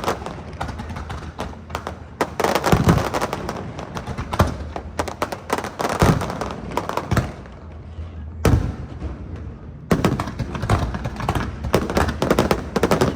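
Fireworks display: a continuous run of booms and crackling bursts, with sharp, loud bangs about eight and a half and ten seconds in.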